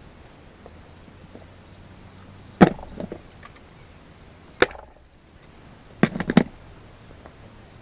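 A manual T50 staple gun firing staples through leather into a plastic seat base: one sharp snap about two and a half seconds in, another about two seconds later, then two or three in quick succession near the end.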